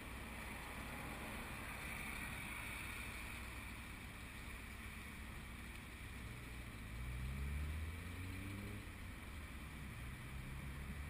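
Honda VFR800 V4 engine idling at a standstill, poorly recorded from a helmet-mounted camera. About six seconds in an engine rises in pitch for a few seconds, then drops away.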